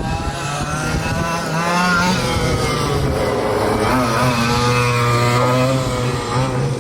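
Engines of several quarter-scale RC race trucks running together at different pitches, each rising and falling as the trucks accelerate and lift around the track.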